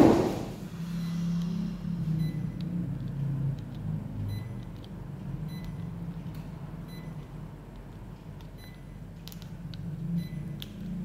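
Panasonic mini split air conditioner running with a steady low hum that wavers in pitch. A sharp knock comes right at the start.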